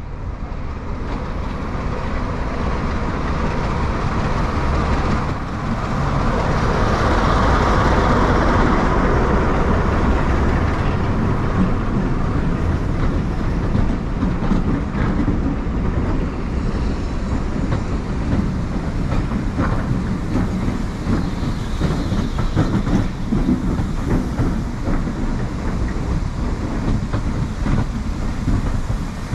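Diesel-hauled passenger train passing close by on the near track, getting louder to a peak about eight seconds in as the locomotive goes past. Then a long string of coaches rolls by, with wheels clicking rhythmically over the rail joints.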